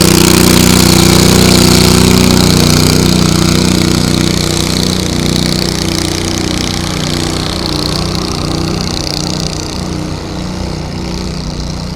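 A tractor engine running loud and hard, its sound easing and fading from about three seconds in, the pitch wavering slightly.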